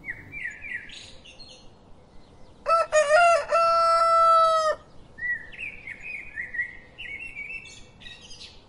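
Rooster crowing once, loud and held for about two seconds, near the middle. Softer high chirping runs before and after the crow.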